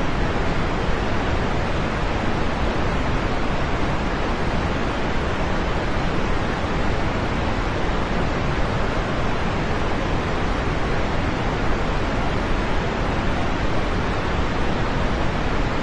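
Steady rain, a dense even hiss of rainfall without separate drops standing out, unchanging throughout.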